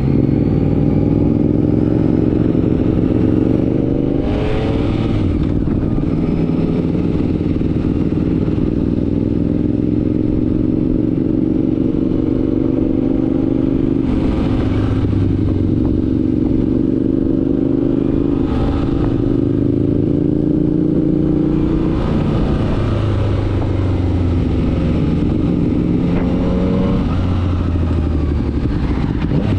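Motorcycle engine under way, its pitch climbing slowly as it pulls, then breaking and dropping at each gear change, about four times.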